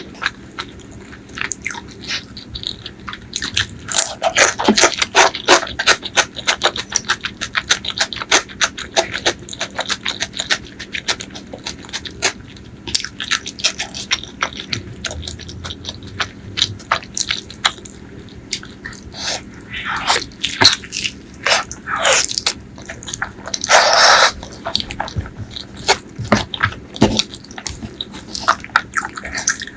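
Close-miked chewing and biting of pork leg curry and rice: a rapid run of wet mouth clicks and smacks, with a few longer, louder sounds in the second half.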